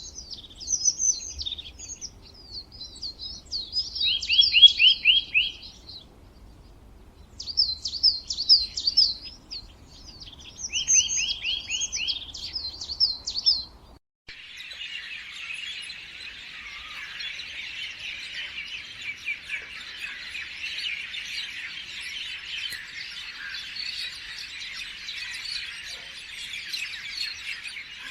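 Birdsong: one bird singing loud, separate phrases of quick repeated notes. About halfway through it cuts abruptly to a quieter, dense chorus of many small birds chirping together.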